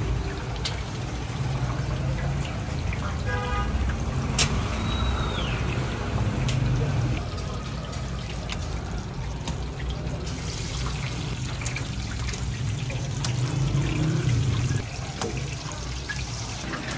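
Chapli kabab patties sizzling as they fry in a wide pan of hot oil, a steady crackling hiss that grows brighter about ten seconds in, over a low steady hum, with a few sharp clicks.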